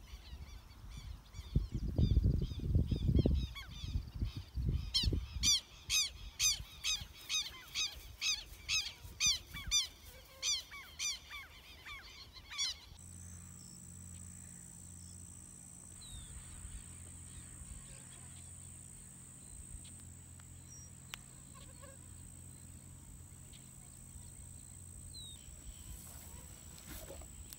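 A bird calling over and over in a loud, honking series, about two calls a second, with low rumbles of wind on the microphone in the first few seconds. The calls stop about halfway, leaving a faint steady hum.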